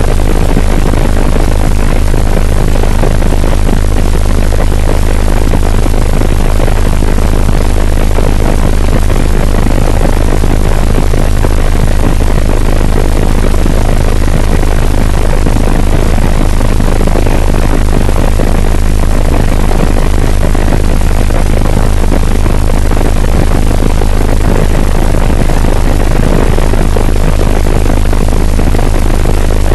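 Helicopter in flight: loud, steady rotor and turbine noise with a strong low drone.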